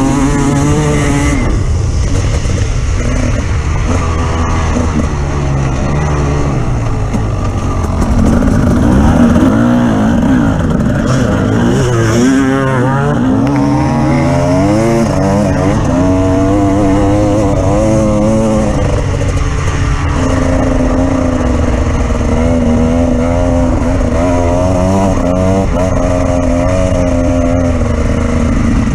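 Engine of an off-road vehicle being driven over terrain, loud throughout, its pitch rising and falling over and over as the throttle is opened and closed.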